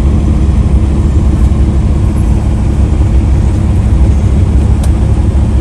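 Truck engine running, heard from inside the cab: a steady low rumble with no change in pitch.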